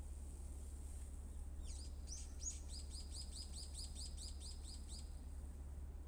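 A small bird singing a fast trill of high, downward-slurred notes repeated about five times a second, starting a little under two seconds in and stopping about a second before the end, over a steady low rumble.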